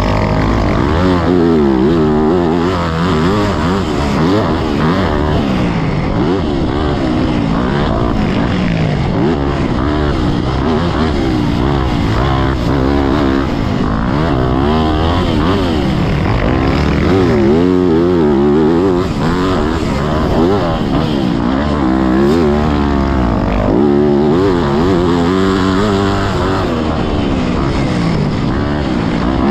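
Yamaha YZ motocross bike engine revving hard around a dirt track, the pitch climbing and dropping over and over as the throttle is opened and chopped through jumps and corners.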